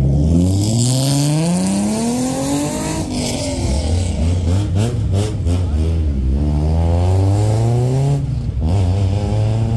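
A car engine at full throttle, accelerating hard through the gears: its pitch climbs, drops at an upshift about three seconds in, climbs again, and shifts twice more.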